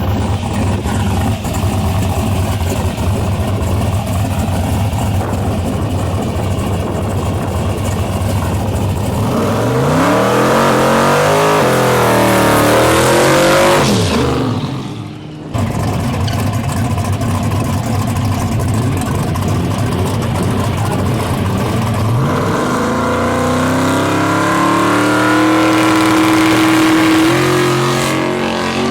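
Car engine running with a steady drone, then revving up with rising pitch about ten seconds in and falling away. It cuts off abruptly and resumes, and revs up again near the end.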